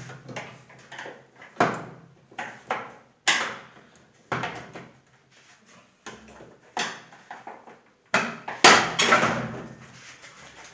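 Sharp, irregularly spaced knocks and clacks of a washing machine's casing parts being handled and pried apart, a dozen or so, loudest near the end.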